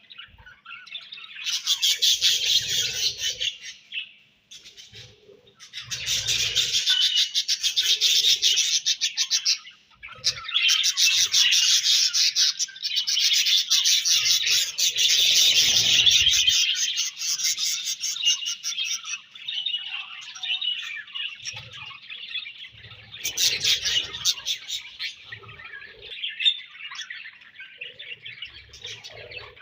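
Budgerigars chirping and warbling in a dense, continuous chatter of rapid high chirps. Several birds sound at once, with a couple of short lulls and a softer stretch past the middle.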